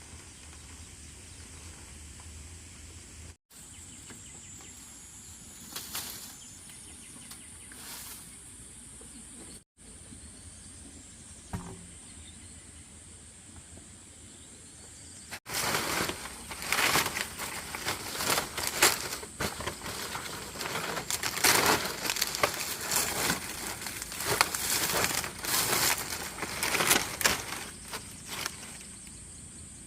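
A faint steady hiss with a thin high tone, then from about halfway a sudden change to loud, irregular rustling and crackling.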